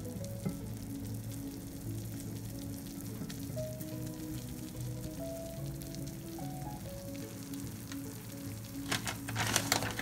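Shredded cheese sizzling as it fries and crisps in a nonstick pan, under soft background music. Near the end a quick cluster of taps and clicks comes in.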